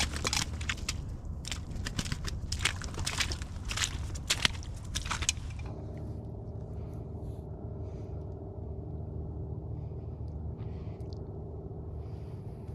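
Crunching, irregular footsteps on ice-crusted frozen ground for the first five to six seconds, then they stop abruptly, leaving a steady low hum.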